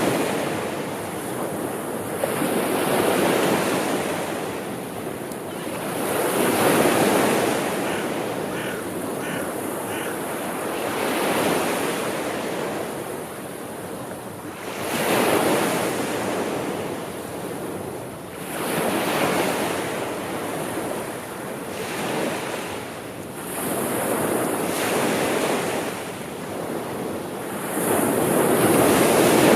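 Sea waves breaking and washing up the shore, a swell of surf every few seconds with a softer hiss of foam between.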